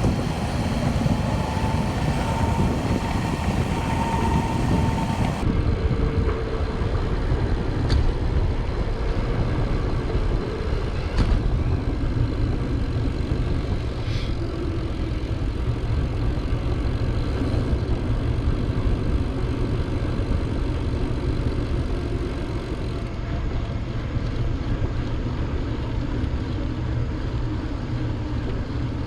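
Steady wind rumble on the microphone of a camera carried on a moving bicycle, with a few faint clicks.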